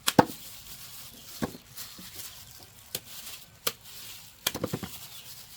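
A series of sharp, irregular knocks and clatters, with a quick flurry of them about four and a half seconds in, over a faint steady hiss.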